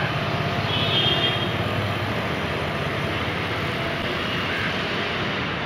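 Suburban electric multiple unit train running past, a steady rumble of wheels on rail and running gear with no let-up.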